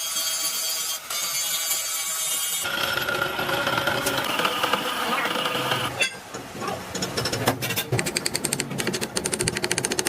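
Machine-shop noise in three abrupt cuts: a hiss, then a steady whine, then rapid clattering knocks through the second half.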